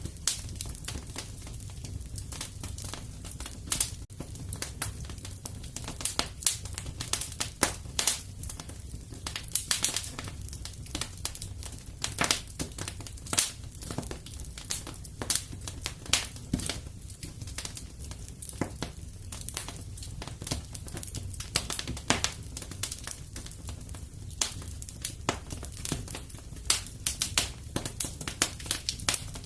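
Fireplace wood fire crackling: dense, irregular pops and snaps of varying loudness over a steady low rumble.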